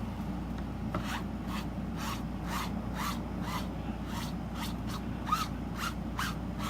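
Repeated rubbing strokes across an adhesive stencil transfer laid on canvas, about two a second, smoothing it down to push out air bubbles. A steady low hum runs underneath.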